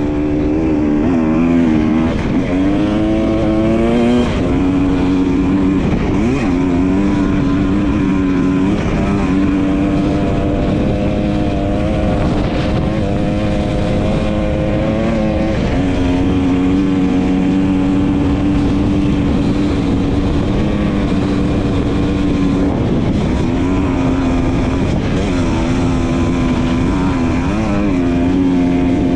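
Dirt bike engine running while riding, holding a steady pitch for long stretches and wavering up and down a few times, over a constant rush of noise.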